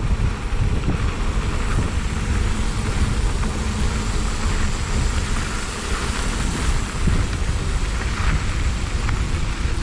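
Wind rushing over the microphone and tyre noise from a mountain bike ridden fast along a trail: a steady, heavy rushing with a deep rumble.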